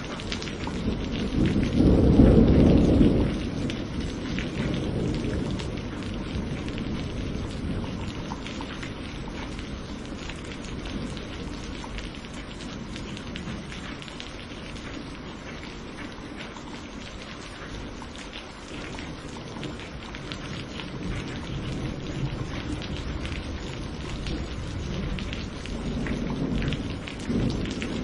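Steady rain falling during a thunderstorm, with a loud roll of thunder a couple of seconds in and further low rumbles building near the end.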